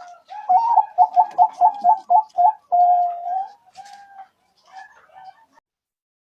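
Zebra dove (perkutut) cooing: a quick run of short rippling coos, about four a second, ending in one longer held coo, followed by a few fainter notes.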